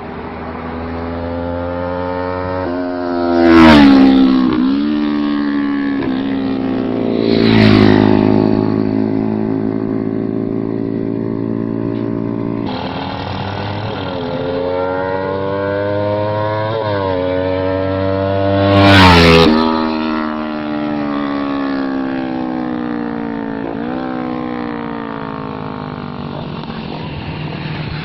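Kawasaki Ninja 400 parallel-twin motorcycle with an SC Project aftermarket muffler, passing by three times. Its exhaust note swells to a loud peak at each pass and drops in pitch as the bike goes away.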